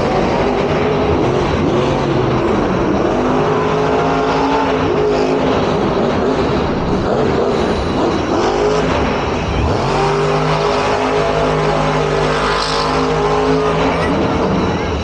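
Monster truck engines running loud in an arena, revving up and down, with a dip about two-thirds through and then a higher rev held near the end.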